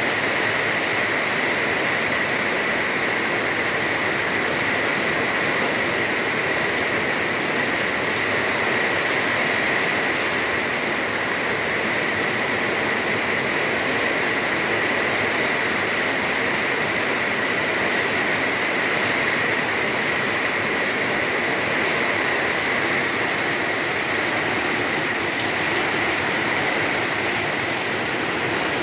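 Heavy rain pouring steadily, a dense even hiss of downpour with no letup.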